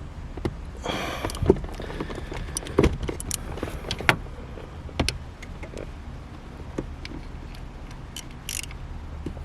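Irregular metallic clicks and clinks of a ratchet and socket being worked on a car shifter's mounting bolts, with a short scraping rustle about a second in.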